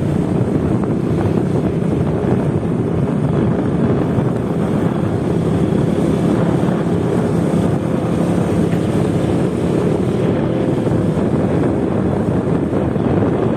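Motorcycle riding at a steady pace, its engine hum mixed with wind buffeting the microphone.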